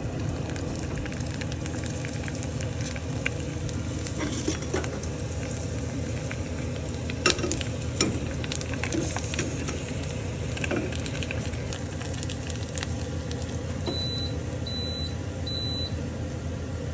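Homemade shrimp-chip pellets frying in hot oil in a small pot, a steady sizzle with scattered pops and crackles as the chips puff up. Three short high beeps come near the end.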